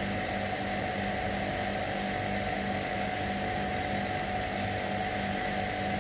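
Steady mechanical hum with a low tone pulsing about twice a second.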